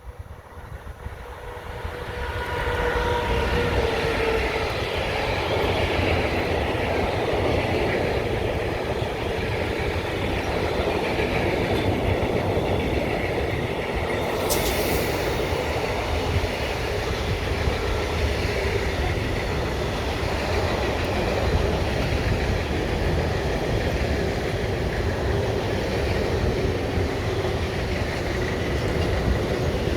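Train passing close by, building up over the first few seconds into a steady loud rumble with wheels clattering over the rails. A brief sharp high-pitched sound comes about halfway through.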